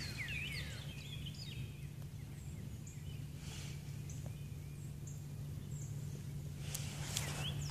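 Birds chirping outdoors: scattered short, high chirps and quick downward-sliding notes over a steady low hum.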